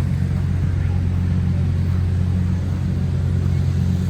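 An engine running steadily at a constant speed, a low even hum that does not change.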